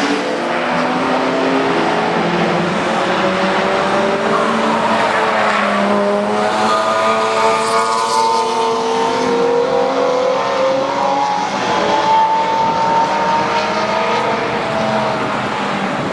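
Several car engines revving on a race track, their pitches rising and falling and overlapping as the cars accelerate and lift off.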